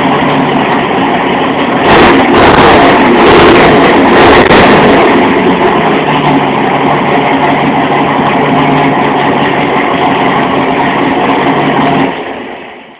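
Modified Chevrolet Chevy straight-six, fitted with a Weber carburetor, raised 9.5:1 compression and a homemade dual-point distributor, rumbling at idle. It is revved up about two seconds in for a few seconds, settles back to a steady idle, and fades out near the end.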